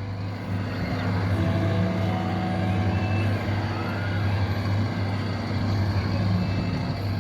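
Coin-operated red tractor kiddie ride running, a steady low engine-like hum.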